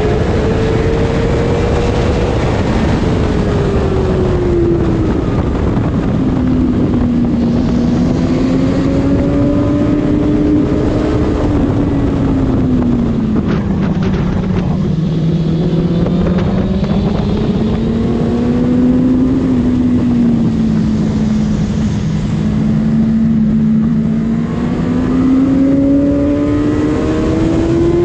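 Honda CBR600RR's inline-four engine running hard on track, its pitch falling and rising slowly several times as the revs drop and climb through corners, under a steady rush of wind noise.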